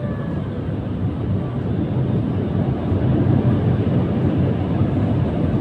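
Car wash machinery running, heard from inside the car: a steady low roar that grows a little louder partway through.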